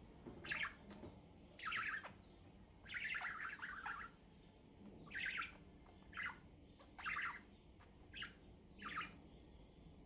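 Budgerigar chirping in short calls, about eight in all, with a longer warbling chatter about three seconds in.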